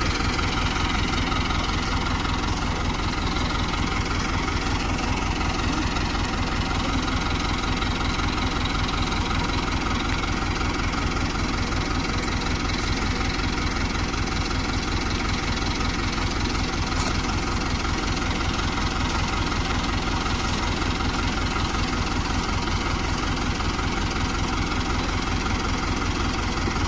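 Tractor's diesel engine running steadily at an even speed, with a fast, regular firing beat and no change in pitch or loudness.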